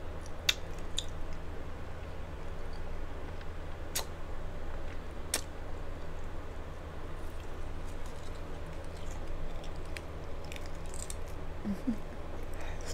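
Close-miked chewing of a nacho-cheese hard taco shell, with sharp crunches here and there, the loudest about half a second in.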